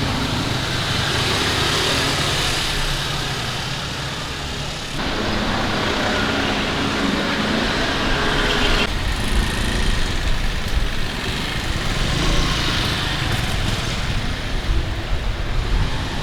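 Street traffic noise: motor vehicles running and passing on a town road, a steady rush of engine and tyre noise that changes abruptly about five and nine seconds in.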